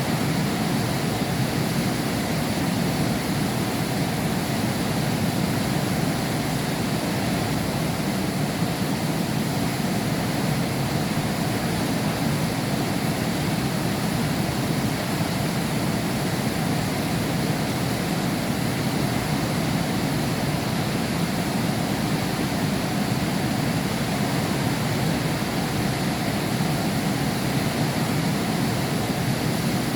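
Heavy rain heard through a glass window: a steady, even rush of rainfall with no breaks or thunder.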